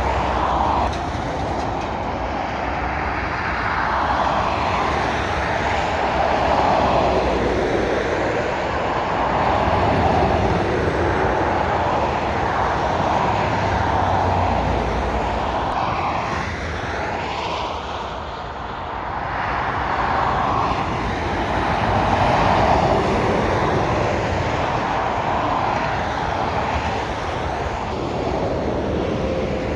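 Motorway traffic: lorries and cars passing one after another, the tyre and engine noise swelling and fading every few seconds.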